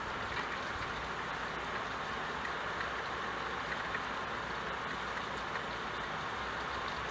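Steady rain falling, an even, unbroken rushing noise.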